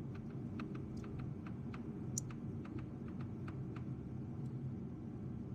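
Light, irregular clicking, like a hand ratchet being worked in short strokes on a coil-pack bolt, over a steady low hum.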